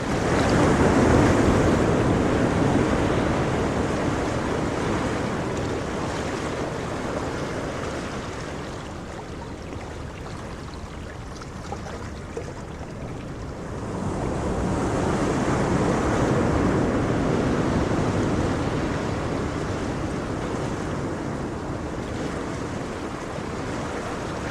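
Ocean surf washing on the beach, with wind buffeting the microphone; the wash swells loudest at the start and again about halfway through.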